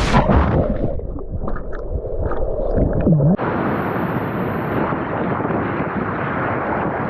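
Water sloshing and gurgling around a GoPro as its wearer swims through a waterfall pool, muffled for a couple of seconds as it dips under the surface, then a steady rush of falling water and wind on the microphone.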